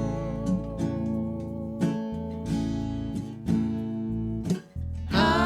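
Instrumental break in a slow ballad: acoustic guitar strumming chords about once a second over steady bass notes. The singing comes back in just before the end.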